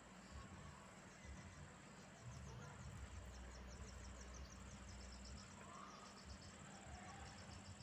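Faint insect chirring: a steady high buzz with rapid repeating pulses, under a low rumble that eases off about five seconds in. A faint bird note sounds about six seconds in.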